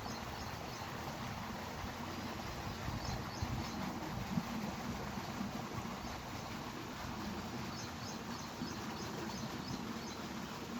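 Steady outdoor background noise with a low hum, and a few faint, short high chirps about three seconds in and again near the end.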